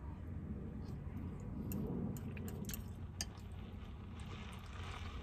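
A person chewing a mouthful of pasta, with scattered small clicks of a fork against the bowl as more is scooped up, over a low steady hum.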